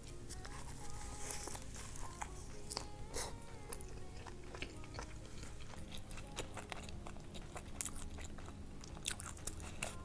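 A person biting into and chewing a seaweed-wrapped mouthful of rice: wet chewing with many small crunches.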